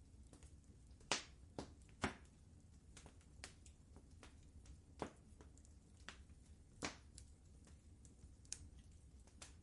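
Wood fire crackling: irregular sharp pops and snaps over a low, steady rumble, the loudest pops about one and two seconds in and again near seven seconds.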